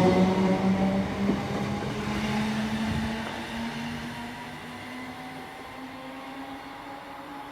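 A train moving away, its running noise fading. A steady motor tone in it slowly rises in pitch as it goes, as when a train gathers speed.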